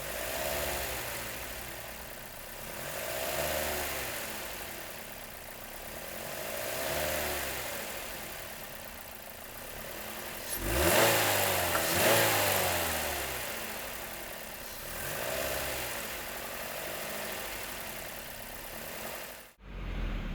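Car engine and intake picked up by a lav mic clipped on the intake hose in the engine bay, its note rising and falling gently every few seconds. About eleven seconds in it revs up more sharply, the loudest part, then settles back.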